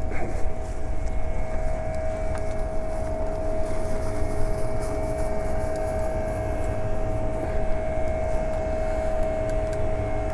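Lectric e-bike hub motor whining at a steady pitch under way, over a low rumble of wind and tyres.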